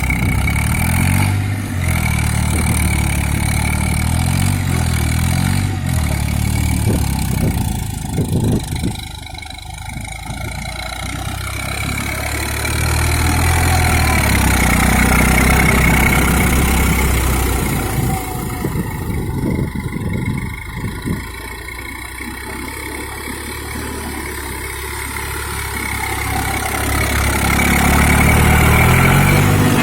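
Eicher 380 diesel tractor engine working under load while puddling, its note rising and falling as the engine speed and distance change, growing louder near the end.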